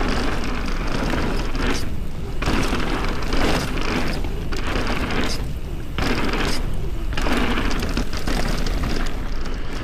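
Mountain bike riding down a dirt trail: tyres rolling over dirt, the bike rattling, and wind rushing over the action camera's microphone. The noise comes in surges, easing off briefly every second or two.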